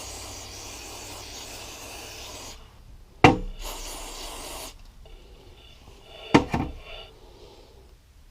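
Aerosol brake cleaner spraying in two bursts, a long hiss and then a shorter one, with a sharp knock between them and another knock about six seconds in.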